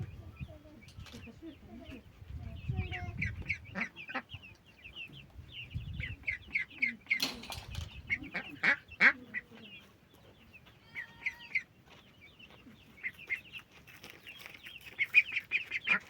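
Chicks peeping: many short, high chirps in quick runs, with louder bursts of calls around the middle and again near the end.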